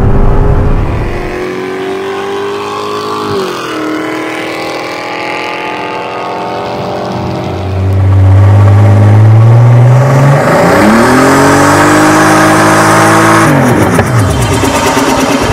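A car engine pulling under acceleration, its pitch falling slowly and then dropping sharply about three seconds in, as at a gear change. About halfway through, a turbocharged BMW E23's engine gets much louder and revs up for a burnout on dirt, holding high revs for a few seconds before the revs fall away near the end.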